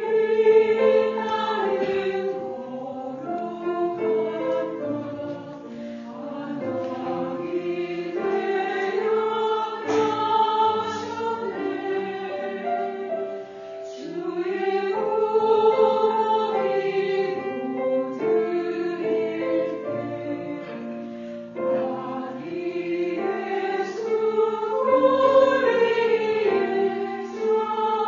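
Church choir singing a hymn in parts, in long sustained phrases with short breaks between them.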